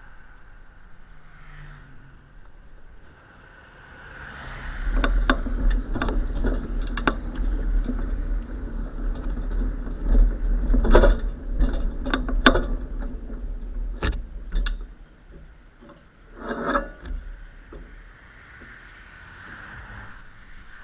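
Bicycle ridden over a rough stretch, its frame and parts rattling and clicking sharply, with a heavy low rumble of wind and road on the microphone. The noise builds about four seconds in and dies away after about fifteen seconds, with one more short burst shortly after.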